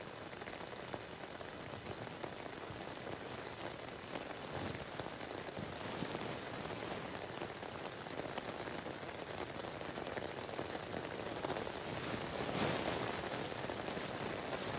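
Light rain falling, a steady fine patter of drops that grows slightly heavier. A few louder rustles come near the end.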